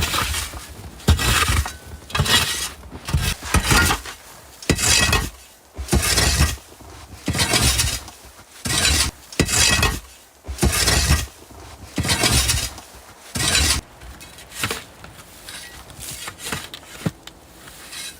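Footsteps crunching through snow at a slow, even pace, about one step a second, becoming softer and less regular after about fourteen seconds.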